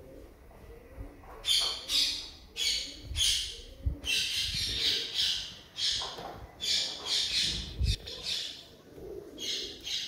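A bird giving a run of short, harsh, hissy squawks, about one or two a second, starting about a second and a half in.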